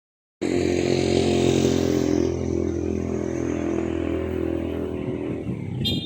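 Vehicle engine running at a steady speed, with a hum of evenly spaced low tones that begins abruptly about half a second in.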